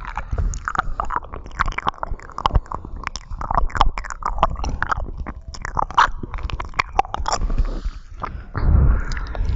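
Close-miked wet mouth sounds: rapid, irregular clicks and smacks of the lips and tongue, several a second. Near the end a louder, low rubbing noise comes in.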